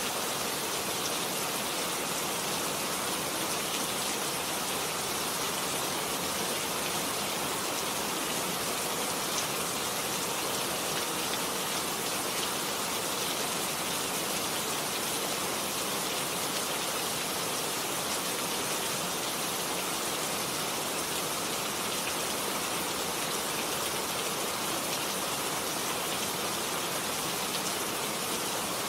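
Heavy rain falling steadily: an even hiss of countless drops that keeps up without a break.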